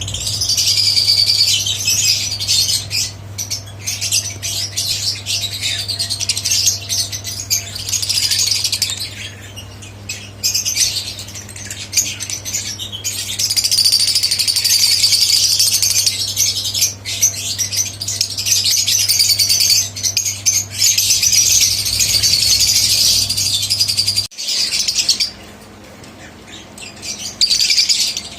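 A group of pet birds chattering and calling, dense high-pitched calls in long stretches with brief lulls. A steady low hum runs underneath and cuts off suddenly near the end.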